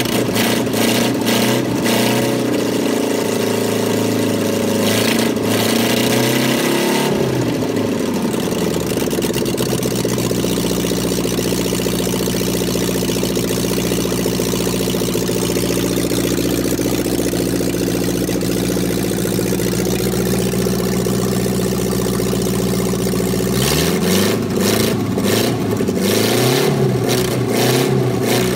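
Freshly rebuilt Honda S500 inline-four engine with four carburettors, running while the throttle is worked by hand at the carburettor linkage. It holds raised, wavering revs at first and drops to a steady idle about seven seconds in. A few seconds before the end it is revved up and down again.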